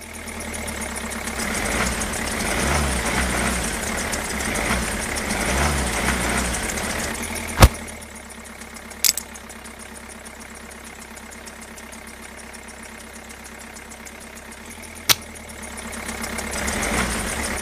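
An engine running steadily, louder for the first seven seconds or so, then quieter, and rising again near the end, with three sharp clicks along the way.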